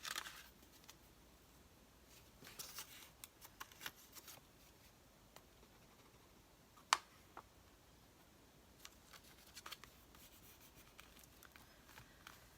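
Faint handling of a paper cutout on a craft table as it is positioned and tacked down: scattered light rustles and scrapes in a few short clusters, with one sharp click about seven seconds in.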